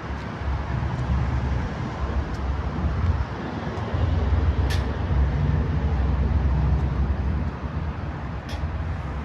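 Low, uneven rumble of the Kenworth T370's Paccar PX-9 diesel engine running, a little louder in the middle, with two sharp clicks, about five and eight and a half seconds in.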